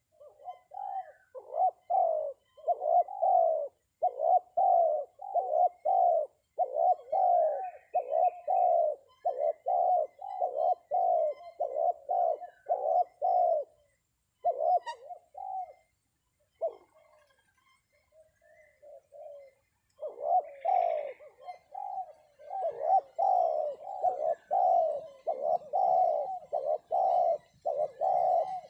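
Spotted dove cooing in long runs of rapidly repeated low notes. The calling breaks off for a few seconds about halfway, then starts again. This is the call a decoy dove is used for, to lure wild doves down to the trap.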